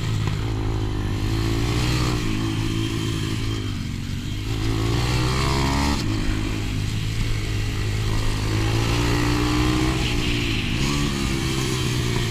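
125 cc pit bike engine under way on a track, heard onboard, its revs rising and falling repeatedly with the throttle, with dips around two, four and eleven seconds in.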